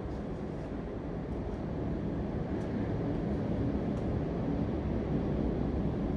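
Steady low rumbling background noise that grows slightly louder about two seconds in.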